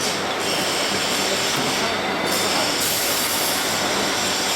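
Steady machinery noise from a uPVC window welding machine running, an even mechanical din with a high hiss and no distinct knocks.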